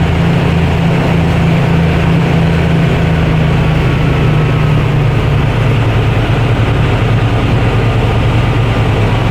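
30-horsepower long-shaft outboard motor running steadily, driving a swamp boat; the engine note drops a little about halfway through.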